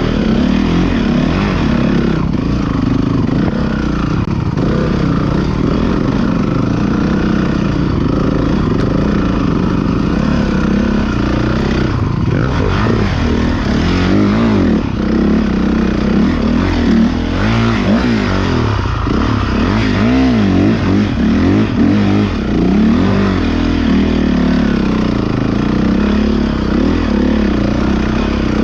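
Several motocross motorcycle engines running and revving, overlapping one another, their pitch rising and falling over and over.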